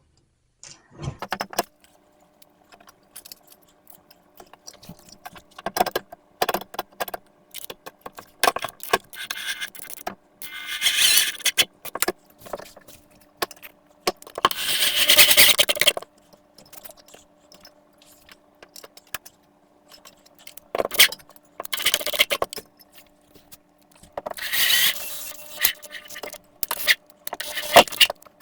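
Metal TV wall mount hardware being handled and fastened to drywall: screws and washers jangling and clicking, with scraping bursts of a second or two as the mount is worked into place.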